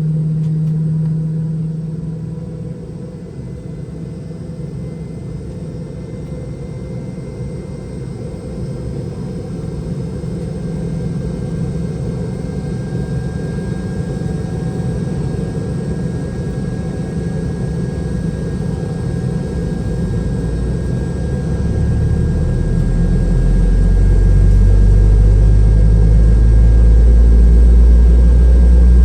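Boeing 717-200's rear-mounted Rolls-Royce BR715 turbofan starting up, heard inside the cabin: a low rumble that grows steadily louder, with deep tones coming in and rising over the last several seconds as the engine spools up.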